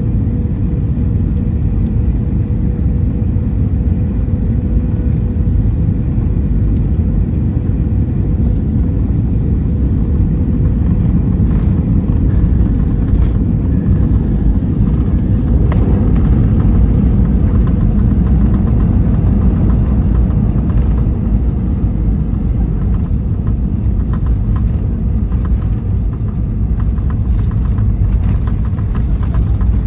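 Steady low rumble of engine and airframe noise in the cabin of an Airbus A321-200 airliner, with a few faint clicks.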